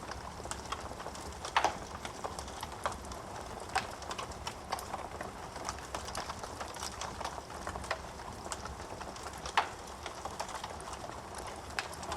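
Wood fire crackling in a fireplace: a steady low hiss of the flames with frequent irregular snaps and pops of burning wood. Two pops stand out louder, one about a second and a half in and one late on.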